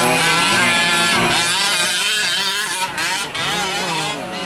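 Several 1/5-scale gas RC trucks' small two-stroke engines revving and backing off around the track, their overlapping pitches rising and falling.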